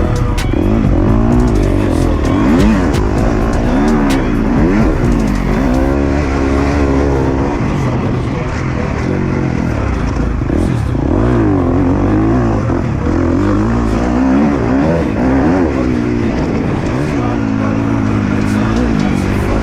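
KTM 250 SX-F four-stroke single-cylinder motocross engine, its pitch rising and falling again and again as the throttle is opened and shut and the gears change.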